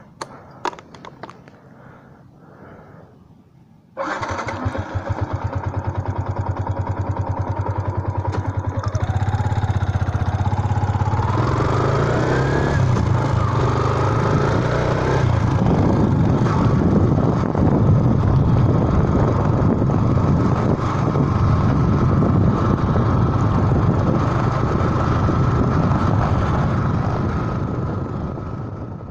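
Motorcycle engine running. It comes in suddenly about four seconds in, after a few light clicks, and grows louder with its pitch rising and falling, then fades out at the end.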